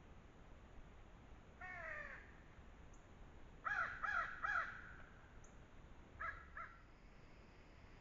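A bird calling: one call, then three louder calls in quick succession, then two shorter calls.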